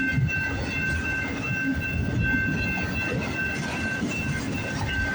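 CN freight train rolling past at close range: a steady rumble with wheels clacking over rail joints. Over it rings a high, repeating tone that breaks off every fraction of a second.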